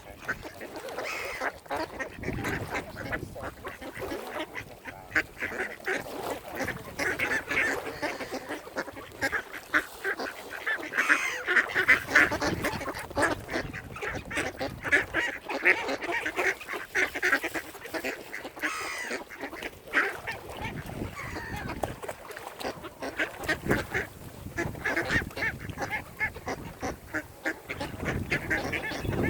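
Waterfowl calling: many short, overlapping calls throughout, busiest in the middle.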